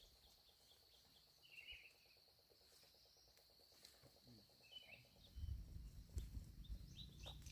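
Quiet riverside ambience: a faint, steady high insect drone with a few short bird chirps. About five seconds in, a louder low rumble sets in.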